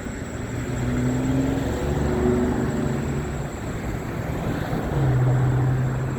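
Road traffic: motor vehicle engines running, with a low engine hum that grows louder about a second in and again about five seconds in.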